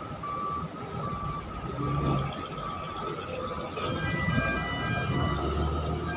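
Truck reversing alarm beeping at a steady pace over a low diesel engine rumble. A second, higher-pitched beeping joins about four seconds in.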